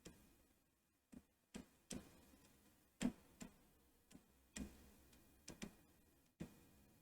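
Near silence broken by faint, irregular light ticks and taps, about nine in all, the loudest about three seconds in: small tools touching the circuit board during drag soldering.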